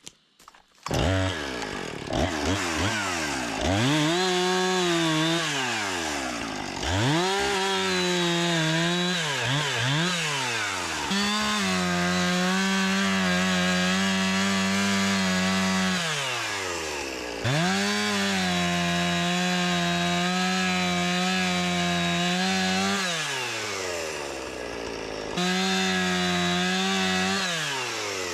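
Gas chainsaw starting about a second in, then revved up and let back down to idle several times, held at full throttle for stretches of four to six seconds.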